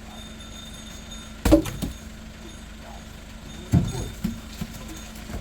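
Heavy thuds of firewood logs being handled: two loud knocks, about a second and a half in and near the four-second mark, each followed by a few lighter knocks. A faint steady hum runs underneath.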